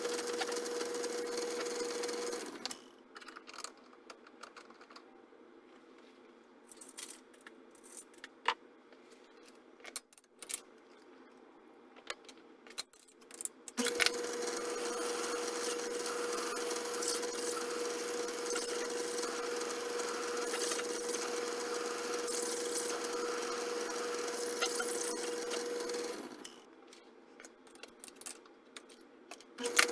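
A small metalworking machine tool motor running with a steady tone, switched off about two and a half seconds in. Scattered light clicks and handling knocks follow, then the machine runs again from about fourteen seconds in and stops again near twenty-six seconds, with more clicks after.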